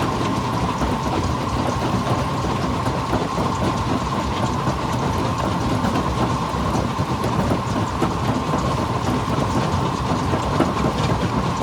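Stone crusher running steadily, a dense continuous clatter of rock being broken with a constant mechanical hum underneath.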